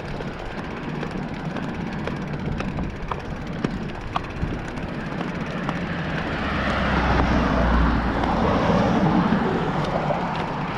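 A motor vehicle passing on a nearby road, swelling about six seconds in with a low rumble and tyre noise, then easing off, over steady traffic background noise.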